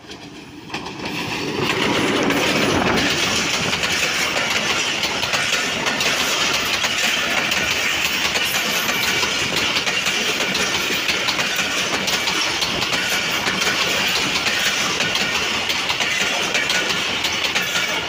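A diesel-hauled passenger express passing close by at speed. The sound builds over the first couple of seconds as the locomotive comes through, then holds loud and steady as a long run of coaches goes by, their wheels running over the rails.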